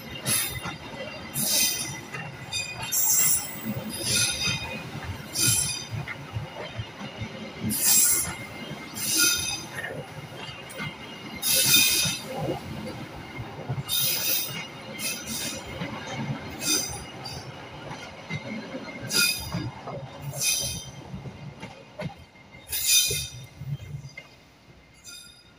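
Passenger train coaches rolling past close by: a steady low rumble of wheels on rails, broken about every second or two by short, sharp screeches of wheel flanges against the rails. The sound dies away near the end.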